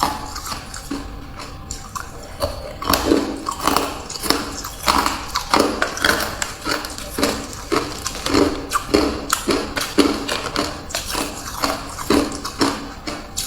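Hard ice being chewed close to the microphone: a steady run of crunches, about two a second.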